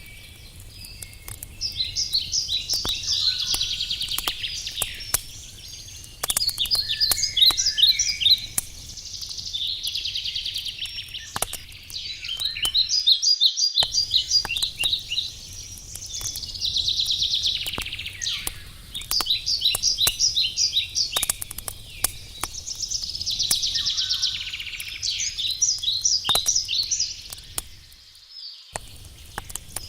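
A songbird singing: phrases of about 2–3 s of quick repeated notes and trills, roughly every 6 s, which are the loudest sound. Under it a wood campfire crackles, with scattered sharp pops over a low steady rumble.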